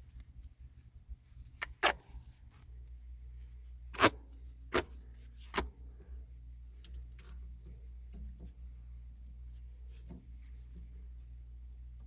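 Four sharp knocks, spaced a second or so apart, among faint small rustles and ticks of handling tools and materials, over a steady low hum.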